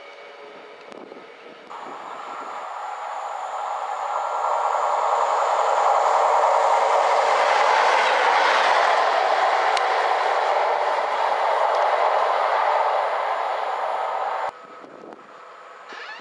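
A train passing at speed, its rail noise swelling to a loud peak midway, holding, then cutting off suddenly near the end.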